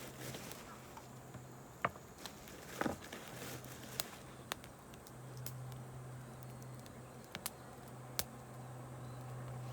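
Wood campfire crackling: scattered sharp pops, the loudest about two and three seconds in. A faint steady low hum lies underneath.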